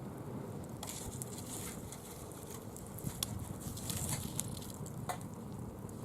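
Bonfire burning dry fallen leaves: a steady crackle with many scattered sharp ticks and brief hissing flare-ups.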